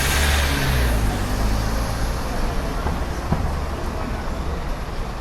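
A motor vehicle passing close by: engine rumble and road noise swell in the first second, then slowly fade. A sharp click comes about three seconds in.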